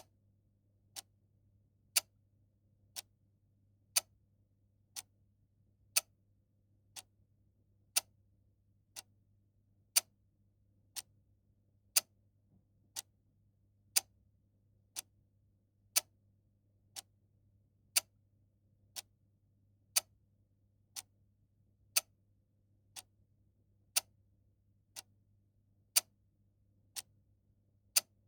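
Mechanical clock ticking steadily, one tick a second, the ticks alternating louder and softer in a tick-tock pattern.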